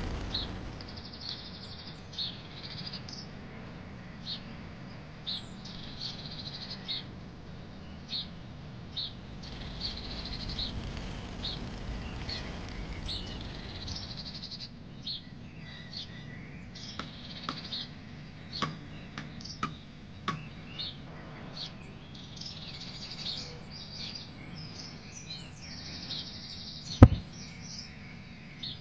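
Small birds chirping in short, high calls that repeat throughout, over a low, steady street hum, with a few light taps and one sharp knock near the end.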